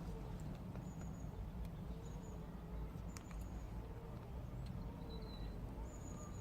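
Birds calling, with short high chirps scattered throughout and short low warbling notes repeating, over a steady low background rumble.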